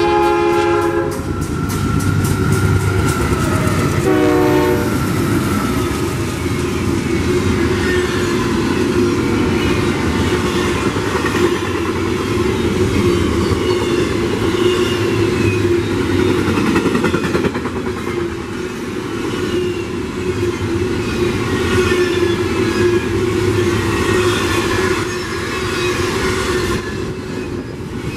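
A locomotive horn blast ends about a second in and a short second blast sounds around four seconds in, while a train runs past with a steady loud rumble.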